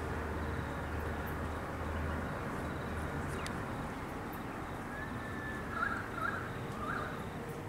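A bird calls a few short times in the second half, over a steady outdoor background hiss; a low hum is there for the first two seconds and then fades.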